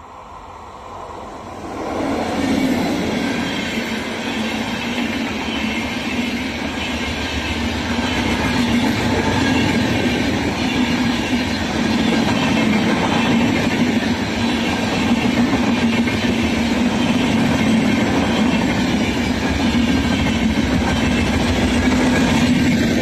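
A train passing close by at speed: the rush of its wheels on the rails comes up suddenly about two seconds in, holds loud and steady for some twenty seconds as the coaches go by, and starts to fall away near the end.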